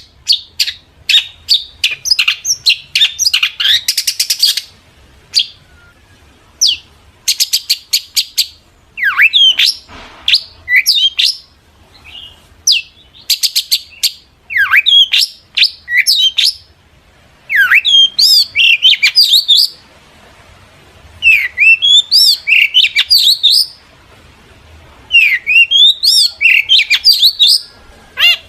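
Long-tailed shrike (cendet) singing loudly in bursts: rapid clicking chatter and steep downward-sweeping whistles, in phrases of one to two seconds separated by short pauses.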